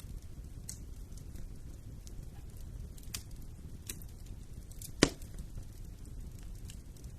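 Wood fire burning in a fireplace: a steady low rumble with scattered small crackles and one loud, sharp pop about five seconds in.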